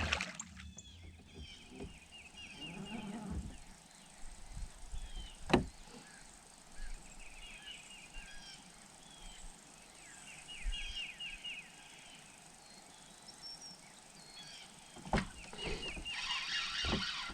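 Birds chirping in quick repeated runs of high notes, with a couple of sharp knocks, the louder one about five seconds in.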